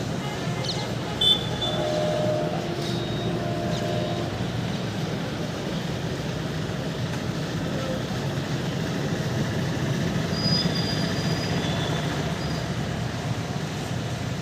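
Double-stack container freight train running past, a steady rumble of wheels on rail.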